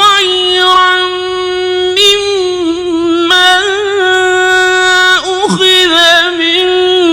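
Man's voice chanting Quran recitation in the melodic mujawwad style, holding one long drawn-out note with ornamental wavering. The pitch dips and glides back up about five seconds in.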